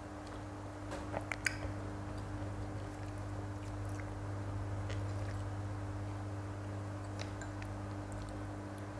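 Close-miked chewing of soft rolled egg on a skewer (telur gulung), with a few sharp little clicks a little over a second in and faint scattered ticks after, over a steady low hum.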